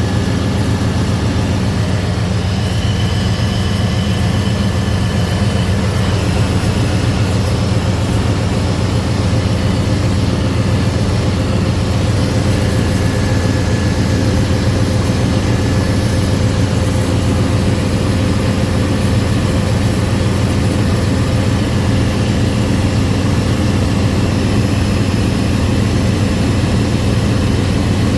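Car engine idling steadily, a constant low hum that does not change.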